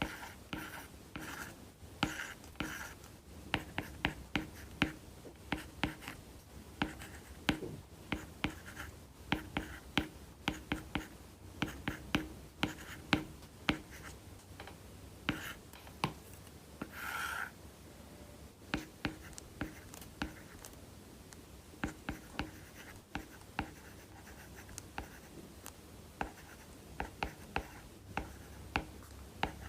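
Apple Pencil with a UNAQUE tip writing on an iPad Pro's paper-like matte screen protector: quick scratchy strokes and light taps of the tip, in irregular rapid runs, with one longer drawn-out stroke about 17 seconds in.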